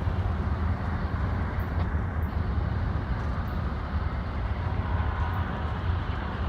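Amtrak passenger train rolling past with a steady low rumble.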